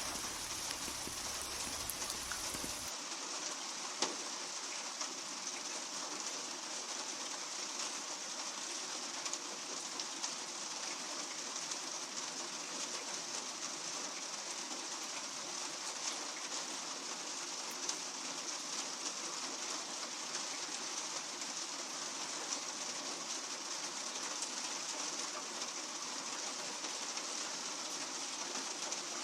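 Steady rain falling on a surface: an even hiss with scattered ticks of single drops. About three seconds in, the sound abruptly turns thinner as its deep rumble and highest hiss drop away.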